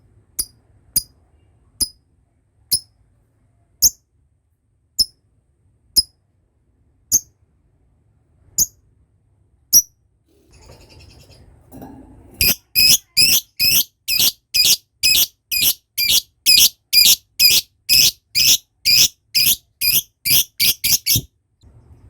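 Lovebird calling: single shrill chirps about a second apart, then about twelve seconds in a fast, loud run of repeated chirps, about three a second, for some nine seconds. This is the long 'ngekek' chatter prized in lovebirds.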